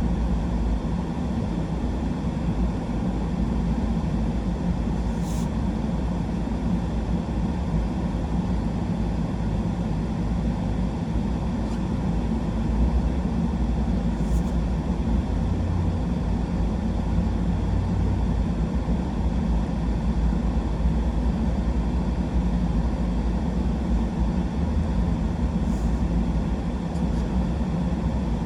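Steady low rumble of a truck driving slowly, engine and road noise heard from inside the cab.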